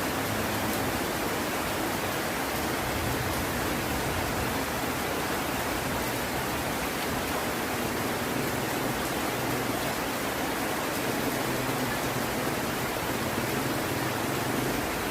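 Heavy rain falling steadily, an even hiss of water with no thunder.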